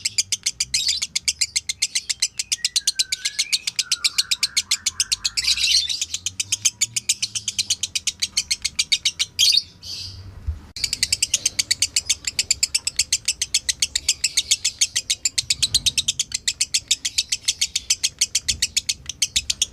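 Lovebird chattering in a long, fast, even run of sharp high chirps (the 'ngekek' call), breaking off briefly about halfway through before starting again. A softer, lower warble comes in a few seconds in.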